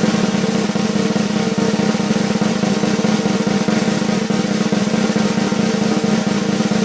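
Snare drum roll, a steady unbroken rapid rattle.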